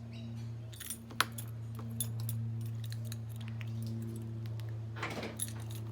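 Clicks from the catch of a BMW convertible's roof mechanism being worked by hand: one sharp click a little over a second in, a lighter one at about two seconds, and a short rattle near the end, over a steady low hum. The mechanism is not behaving, and its owner fears he has broken it.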